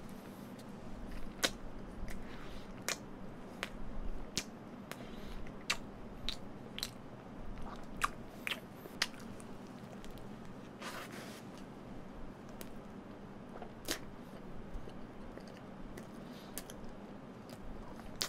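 A person chewing a mouthful of hamburger close to the microphone, with sharp wet mouth clicks and lip smacks scattered through, most of them in the first half.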